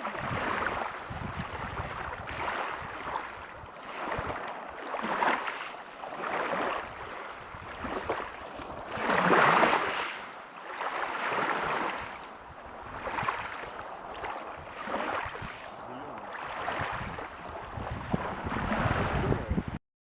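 Water washing in repeated swells about every two seconds, like waves surging, with one louder surge about nine seconds in. Wind rumbles on the microphone underneath. The sound cuts off suddenly just before the end.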